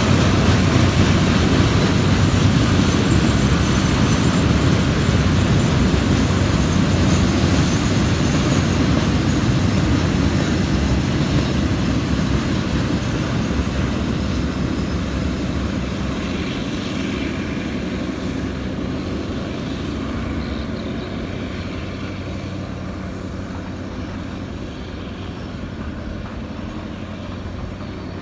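KTM freight train's hopper wagons rolling along the rails, a steady rolling noise that slowly fades as the train draws away.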